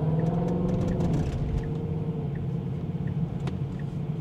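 The 5.0-litre V8 of a passing Ford Mustang Dark Horse, a low engine note that is strongest in the first second or so and then eases off. Under it a light tick repeats about every three-quarters of a second, like a car's turn signal.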